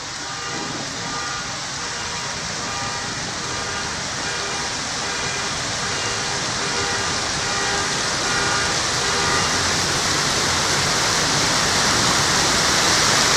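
Heavy rain and hail pouring down in a dense, steady rush that grows steadily louder.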